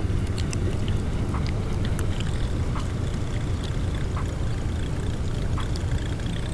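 Buzzbait being reeled across the water surface, its spinning blade churning and gurgling, with light clicks.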